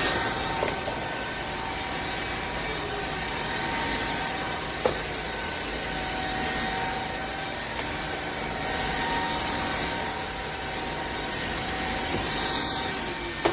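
Shark cordless stick vacuum running steadily, a motor whine with a hissing airflow that brightens near the start and again near the end, with one sharp knock about five seconds in.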